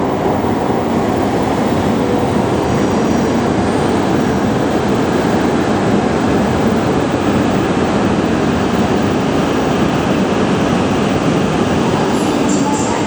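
Tohoku Shinkansen train running along the station platform, a loud, steady rush of wheel and air noise.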